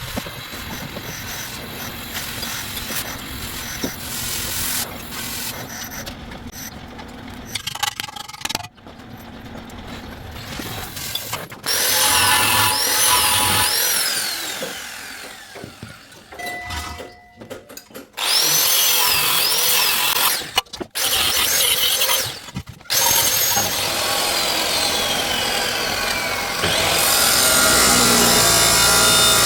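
Workshop power tools running in a string of short clips with abrupt cuts, some with a high whine that swoops up and down several times.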